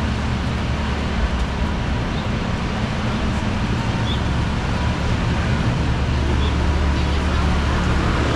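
City street traffic: a steady wash of passing vehicles, with a low engine rumble that grows louder about five seconds in as a heavier vehicle draws near.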